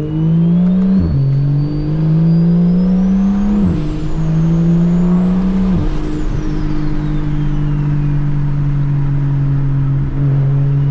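Single-turbo BMW 335i's N54 inline-six accelerating through three quick upshifts: the engine note climbs and drops sharply at each shift, about one, three and a half, and six seconds in, then settles into a steady cruise. A high turbo whistle rises with the boost and fades away after the last shift.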